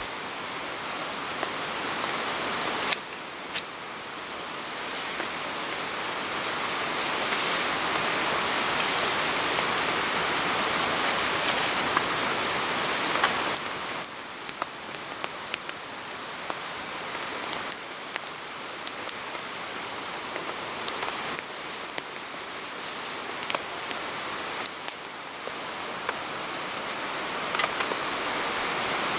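Steady rain, an even hiss with scattered sharp drop ticks. The hiss changes level suddenly a few times, around 3 and 13 seconds in.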